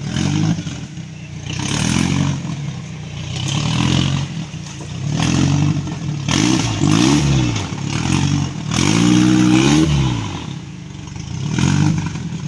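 Off-road 4x4's engine revved in repeated bursts, rising and falling in pitch every second or two, the longest rev near the end, with clattering from the vehicle.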